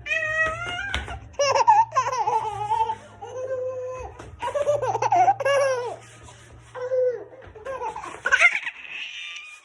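A small child laughing in repeated high-pitched bursts.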